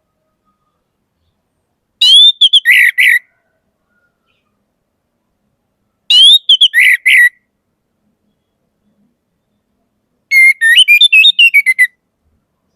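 Orange-headed thrush singing: three loud phrases of sliding whistled notes a few seconds apart, the last a quicker run of notes.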